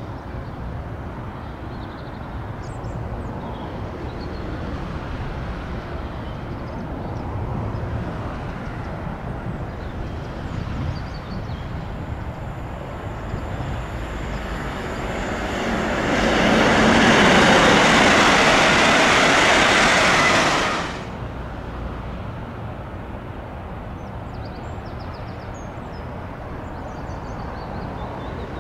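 A train passing close at speed on the main line. A rumble builds for about fifteen seconds into a loud rushing noise that lasts about five seconds and cuts off suddenly as the train clears.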